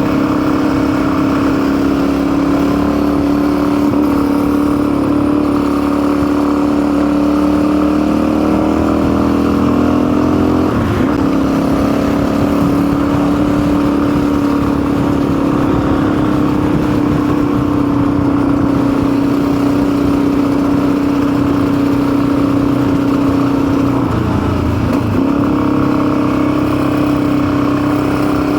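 Motorcycle engine running at steady speed under way, its note holding even. It dips briefly and comes back twice, about a third of the way in and again near the end.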